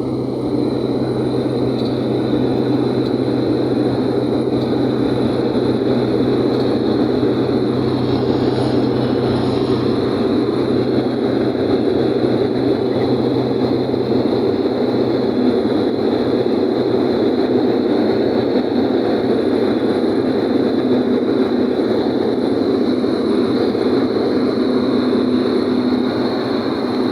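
Cessna Caravan's single turboprop engine running steadily at high power for takeoff: a constant propeller drone with a thin, high turbine whine over it.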